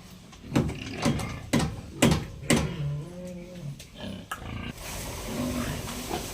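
Pigs grunting: five loud, short grunts about two a second, then a longer pitched grunt. A steady hiss takes over near the end.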